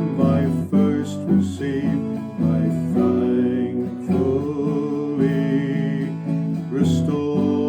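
Hymn tune sung over strummed acoustic guitar chords, the voice holding long notes with a slight waver.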